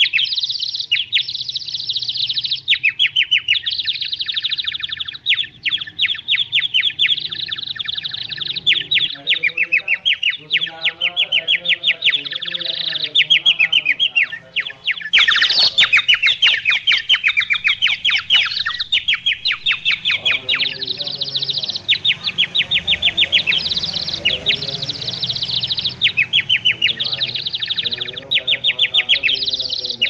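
Small birds chirping rapidly and continuously in a dense, high twitter, busiest about halfway through.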